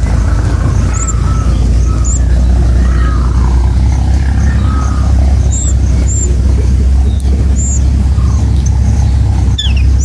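Short, high bird chirps, repeated every second or so, over a loud steady low rumble.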